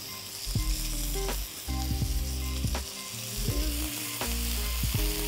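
Sliced potatoes, still wet from soaking in cold water, sizzling steadily as they fry in hot mustard oil and ghee in an iron kadai. A few sharp clicks sound over the sizzle.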